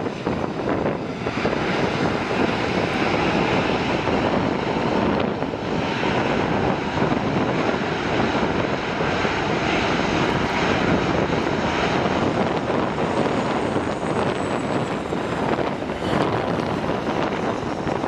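Jet airliner's engines heard as the plane passes, a loud steady noise with a faint high whine that falls slightly in pitch late on.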